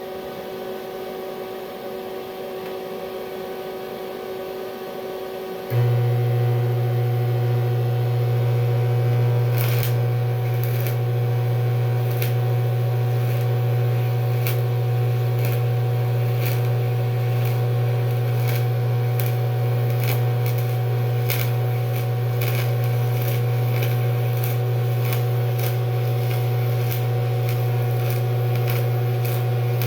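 TIG welding on aluminum with DCEP and argon: the welder hums quietly until the arc strikes about six seconds in. It then gives a loud steady hum, with irregular crackles and pops from the arc from about ten seconds on.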